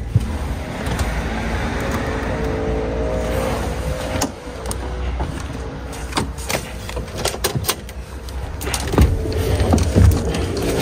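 DAF XF510 truck's straight-six diesel running, heard from inside the cab as a steady low rumble with a pitched hum, with frequent sharp clicks and rattles scattered through.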